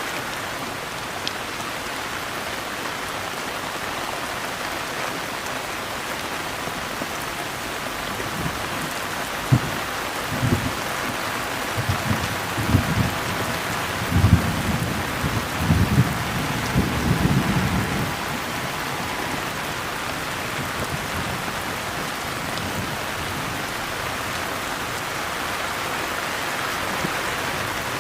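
Steady rain falling and pattering on a surface. About nine seconds in, a low roll of thunder rumbles in uneven surges for roughly nine seconds, then dies away under the rain.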